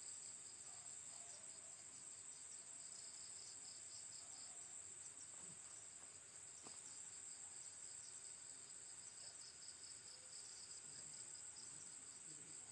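Faint, steady chorus of crickets chirping, a high-pitched trill at two pitches, one very high and one a little lower.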